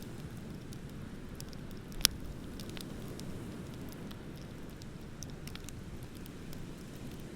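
Wood bonfire crackling with scattered small pops and one sharp, loud pop about two seconds in, over a steady low rush of ocean surf.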